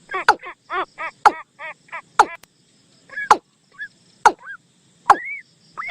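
Bird decoy call for นกตูม, played as a trapping lure: a quick series of arched, pitched notes about four a second, then sharp clicking knocks about once a second with a few slurred notes between.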